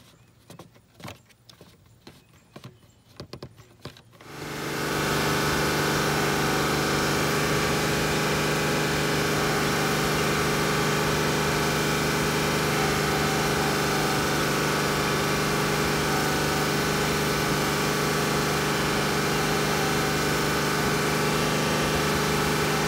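A few faint clicks as the ABC reservoir filter is seated by hand. Then, about four seconds in, the Mercedes S65's twin-turbo V12 engine comes in, running steadily at an even pitch.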